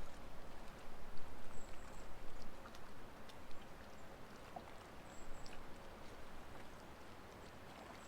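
Wind rumbling unevenly on the microphone in gusts, stronger in the first half, with water lapping at a boat hull and a few small clicks.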